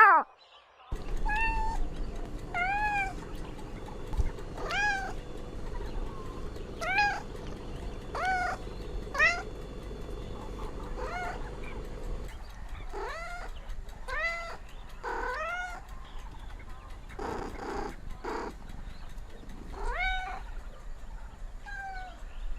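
A cat meowing over and over: short, high, arching calls, one every second or two. A low background hum under the first half stops partway through.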